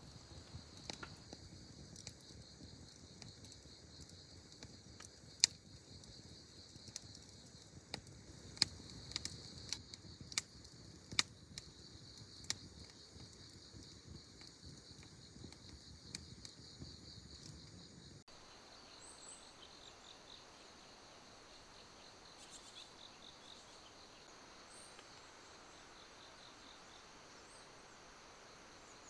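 Crickets chirping steadily, with sharp pops and snaps from a wood campfire scattered through the first two-thirds. After an abrupt edit cut the popping stops and only the insect chirring continues, with a few brief high chirps.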